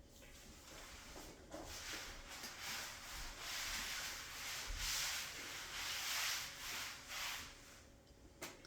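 Rubbing, rustling noise that comes in uneven swells for about six seconds, followed by a single light knock near the end.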